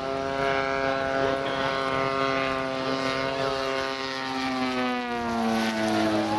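Radio-controlled model airplane's propeller engine running steadily in flight, its pitch falling about five seconds in.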